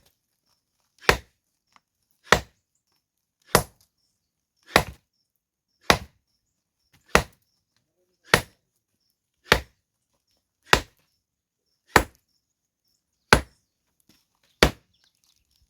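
Steady, evenly paced hammer blows striking stone, about a dozen sharp knocks, one every second and a bit, each with a short ring.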